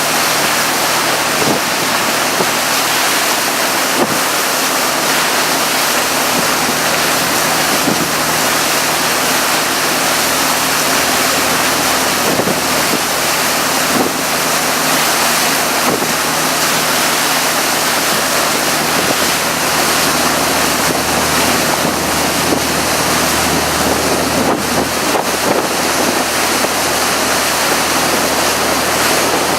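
Tour boat under way: a steady rush of water and wind noise on the microphone over the low, even drone of the boat's engine.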